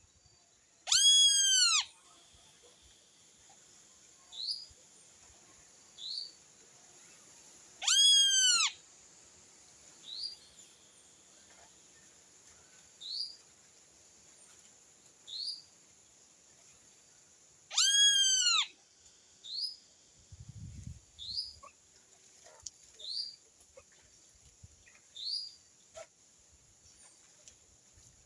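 Birds calling: a loud, drawn-out call that arches up and down in pitch comes three times, about a second in, around eight seconds in and around eighteen seconds in, while a short rising high chirp repeats every second or two.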